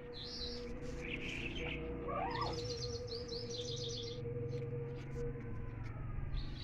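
Songbirds chirping and twittering, with a quick trill of rapid high notes about two and a half seconds in, over a steady low hum.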